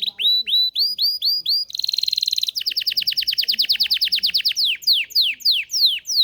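Domestic canary singing its song as a run of trills. First come repeated hooked notes at about five a second. Just after two seconds in there is a short buzzy roll, then a very fast trill of about twelve notes a second, and near the end slower notes slurring downward.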